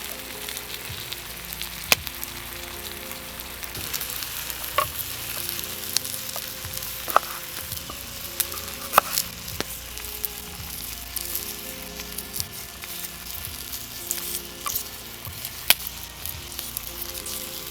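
Food sizzling as it fries, a steady hiss broken by frequent sharp pops of spitting fat.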